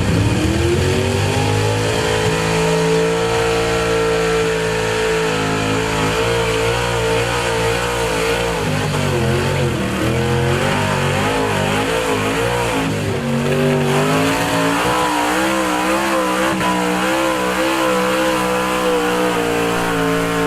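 Small-block V8 super stock pulling truck engine at full throttle during a pull. It climbs to high revs at the start and holds there, with the pitch wavering up and down in the middle of the run, then drops off at the very end as the throttle comes off.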